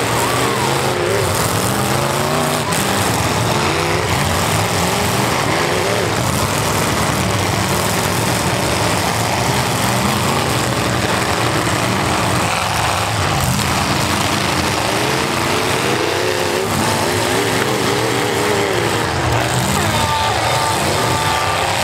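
Several demolition-derby cars' V8 engines running together, revving up and down continuously as they drive and ram in the arena.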